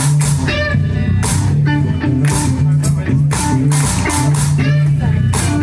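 Live band playing an instrumental passage: a guitar riff over a repeating bass line and drums.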